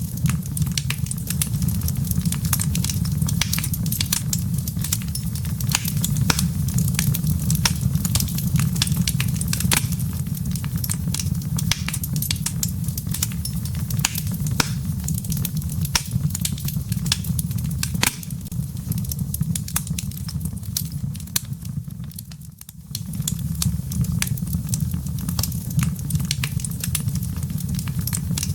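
Wood fire in a fireplace crackling, with dense sharp pops and snaps over a steady low rumble of the flames. The sound briefly drops away about three quarters of the way through, then returns.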